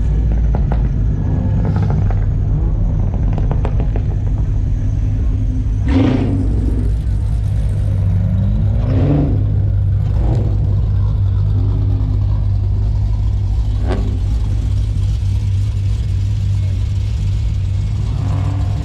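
Steady low rumble of a running car engine, with a few brief louder sounds over it about six, nine and fourteen seconds in; the one near nine seconds slides in pitch.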